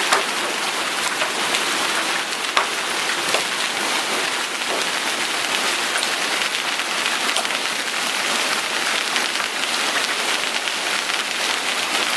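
Heavy downpour of rain and small hailstones pelting down in a dense, steady hiss, with occasional sharper ticks of individual stones striking.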